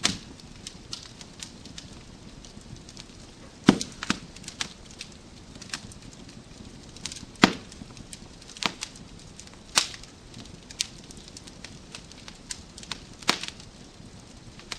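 Wood fire crackling in a fireplace: irregular sharp pops and snaps from the burning logs over a soft steady hiss, with a few louder pops scattered through.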